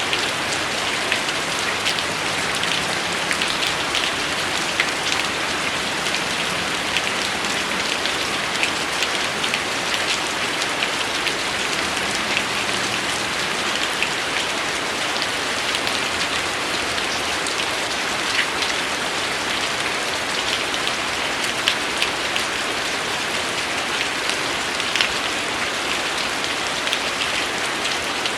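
Steady rain falling on a surface, an even hiss scattered with many small, sharp drop impacts.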